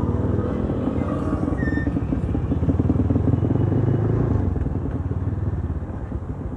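Motorstar Cafe 150's single-cylinder four-stroke engine running as the bike is ridden along a street. It pulls a little harder about halfway through, then eases off.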